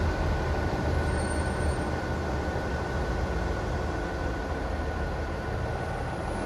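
Steady low rumble of a moving vehicle, with a faint steady high tone above it.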